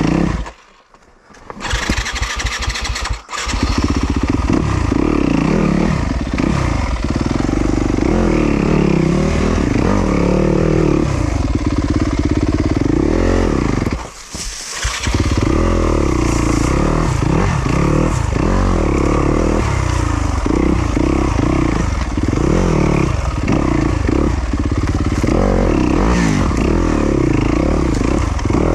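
Yamaha YZ250FX four-stroke single-cylinder dirt bike engine. It goes silent about a second in, catches again within a couple of seconds, then revs up and down over rough terrain, with a brief drop in revs about halfway through.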